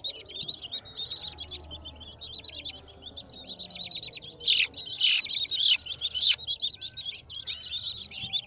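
A flock of young chicken chicks peeping continuously, many short high peeps overlapping, with a few louder peeps around the middle.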